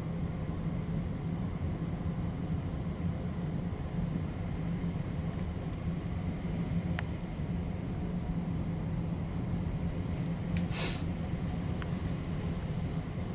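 Heavy rain during a thunderstorm: a steady low rumble with an even hiss over it. A single sharp click comes about seven seconds in, and a brief burst of noise near eleven seconds.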